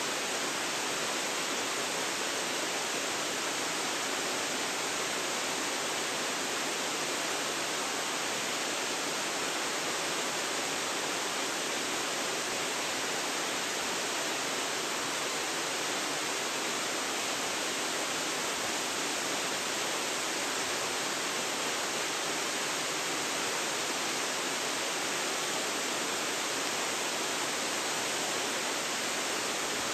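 Waterfall, falling water rushing steadily and evenly with no change, recorded on a phone's built-in microphone.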